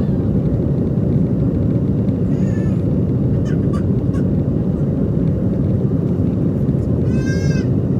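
Airbus A320neo jet noise, a loud, steady low rumble. Two brief high-pitched calls cut through it, one about two and a half seconds in and a stronger one near the end.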